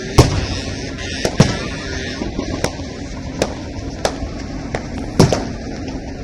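Fireworks display: about eight sharp bangs of bursting fireworks at irregular intervals over steady background noise, the loudest right at the start, about a second and a half in, and a little after five seconds in.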